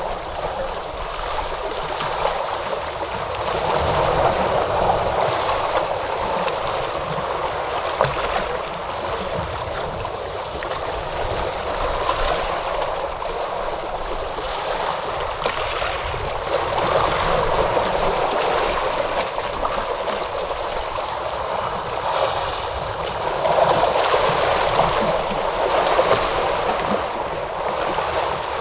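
Ocean waves breaking and washing on a shore, a steady rush of surf that swells louder every several seconds and then eases.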